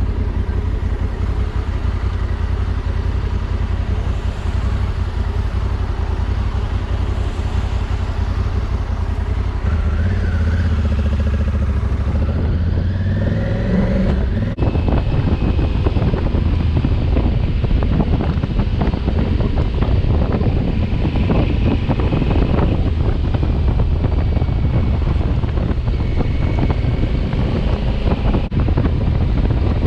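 2020 Honda Africa Twin's parallel-twin engine running under way, with wind buffeting the microphone. The engine pitch shifts a few times about ten to fourteen seconds in, after which the wind rush gets louder.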